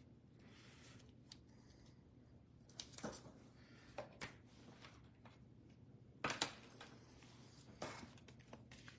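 Faint handling of trading cards and their packaging: a few scattered soft clicks and rustles, the clearest about three seconds in and just after six seconds, over near-silent room tone.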